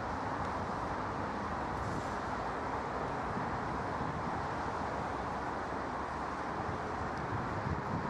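Jet aircraft engines running with a steady roar, holding level with no rise or fall in pitch.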